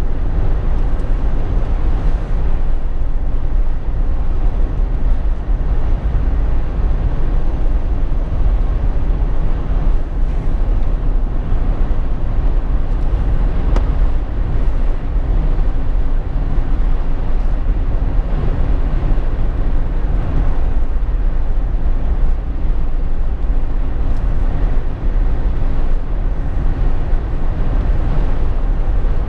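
Steady low drone inside the cabin of a Jeep Wrangler JK on the move: engine and road noise, with no change through the stretch.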